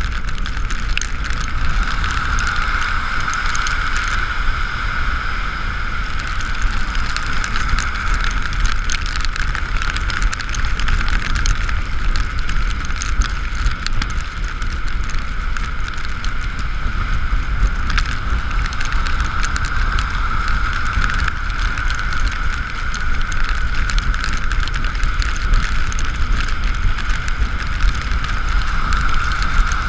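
Riding noise on an Ekoway ML5000 electric scooter in the rain: wind rumbling on the microphone and tyres hissing on the wet road, under a steady high whine.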